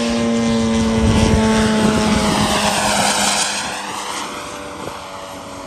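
Radio-controlled model aircraft flying past, loudest in the first three seconds, with a sweep in pitch as it goes by and then fading away.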